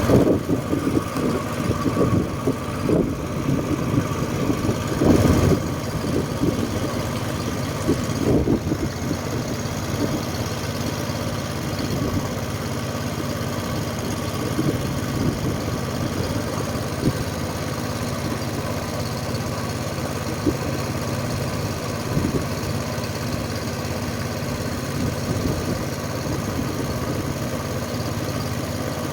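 Tour boat's engine running steadily, with a few irregular knocks and bumps in the first several seconds.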